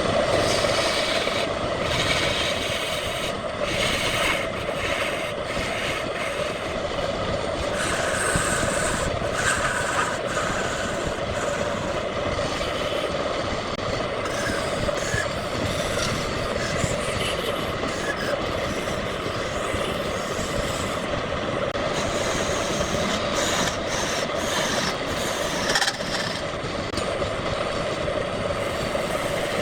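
Wood lathe running with a steady hum, under a hiss that swells and fades.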